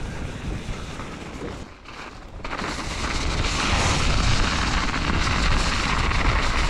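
Wind rumbling on a GoPro camera microphone. About two and a half seconds in, a loud rushing hiss joins it and keeps building.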